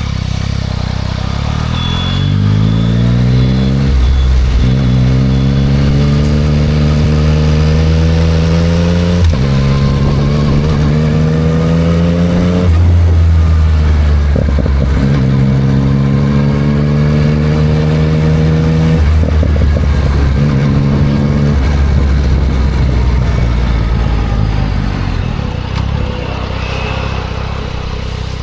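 2024 Yamaha MT-09 SP's inline-three engine through a Spark full exhaust, accelerating through the gears. The engine note climbs in each gear and breaks at each of several gear changes, then eases to a steadier run near the end.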